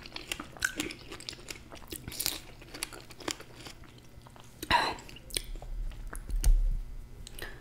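Close-miked chewing of a Nutella-dipped strawberry: soft wet mouth clicks and squelches. There is one louder mouth noise just before five seconds in, and a low dull bump about six and a half seconds in.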